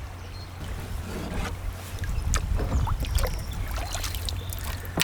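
Small splashes and water lapping against a kayak, with scattered light clicks and knocks of handling over a steady low rumble; one sharp click near the end.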